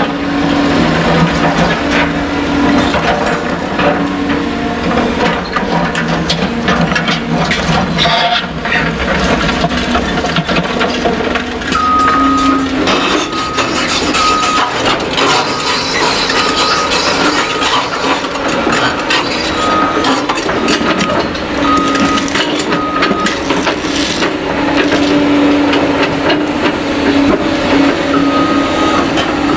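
CAT excavators working in demolition: diesel engines running under load while rubble cracks and clatters. From about halfway, a reversing alarm beeps about twice a second in short runs.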